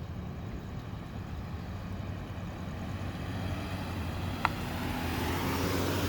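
Car engine running, growing louder toward the end as the vehicle comes closer, with one short sharp click about four and a half seconds in.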